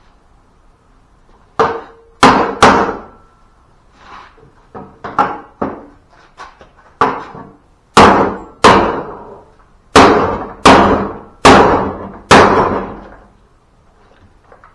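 Hammer blows on a bent part of a zero-turn lawnmower, beating it back into shape: a run of sharp strikes at an uneven pace, each with a short ring. Lighter taps come in the middle, and the heaviest blows in the second half.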